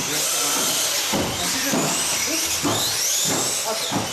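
1/18-scale electric off-road RC cars racing, their motors whining and rising and falling in pitch as they accelerate and brake, over a steady hiss.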